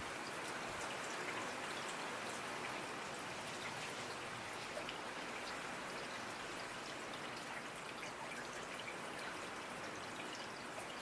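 Steady rainfall with scattered individual drop ticks.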